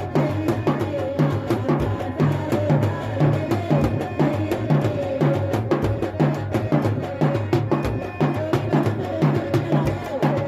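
Instrumental nautanki folk music: fast, steady drum strokes over a repeating bass pattern and a sustained melody line, with no singing.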